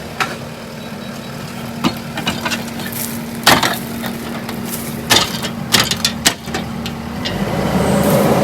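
Irregular knocks, clicks and snaps over a steady vehicle engine idling, the engine growing louder near the end.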